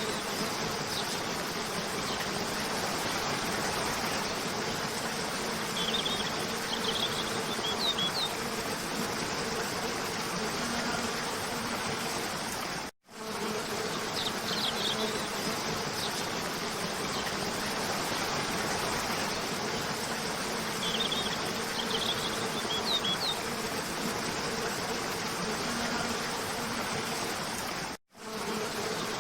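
Steady rushing of a cascading waterfall with a low steady hum beneath it, and clusters of short, high bird chirps a few times. The sound drops out for an instant about 13 seconds in and again near the end.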